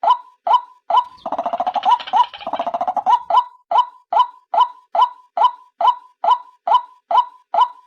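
White-breasted waterhen (ruak-ruak) calls used as a trapping lure, sold as the female's call: a steady series of short croaking notes, a little over two a second, broken about a second in by a rapid chattering run of about two seconds, after which the steady notes resume.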